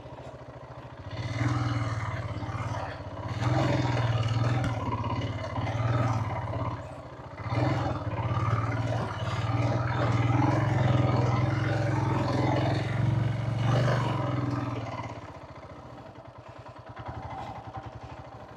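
Motorcycle engine working through a muddy track, its level rising and falling with the throttle for most of the stretch, then easing off to a quieter run near the end.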